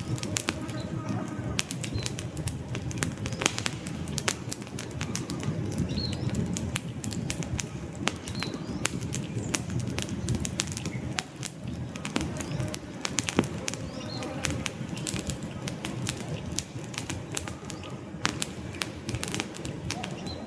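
Wood fire burning in a fireplace: logs crackling with dense, irregular pops and snaps over a steady low rush of flames, with a few faint short high chirps now and then.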